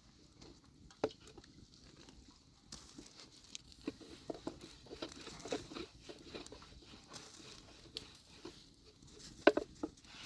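Scattered light taps, clicks and rustling, with a faint steady hiss coming in a little under three seconds in and two sharper clicks near the end.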